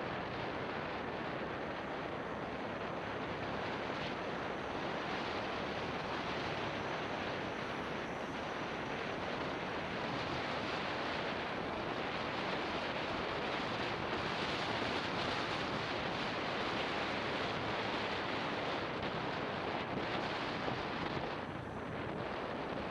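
Wind rushing over an action camera's microphone on a moving motorbike: a dense, steady hiss of wind and road noise. It swells a little about two-thirds of the way in and dips briefly near the end.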